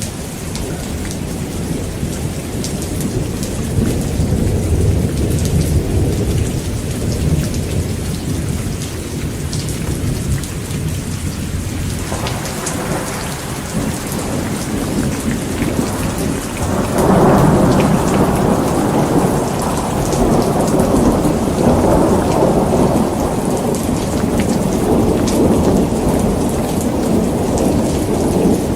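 Heavy rain pouring steadily, with rolling thunder underneath. A low, long rumble fills the first part, and a louder peal breaks a little past halfway and keeps rolling.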